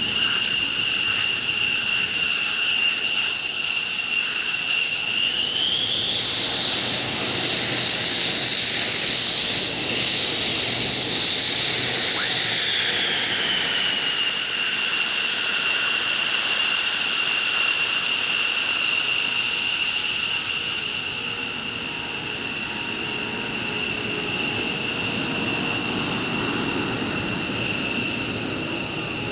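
F-15 fighter's jet engines running with a steady high whine over a broad jet rush. The whine rises in pitch about five seconds in, holds for several seconds as the throttle is advanced, then falls back to idle pitch about thirteen seconds in.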